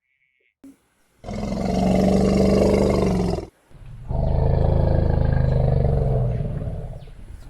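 A big cat roaring: two long, deep roars, the first starting about a second in and lasting about two seconds, the second starting about four seconds in and trailing off near the end.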